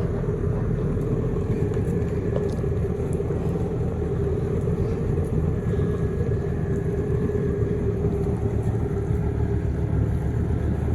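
An engine running steadily: a continuous low rumble with a steady hum over it, with no change in speed.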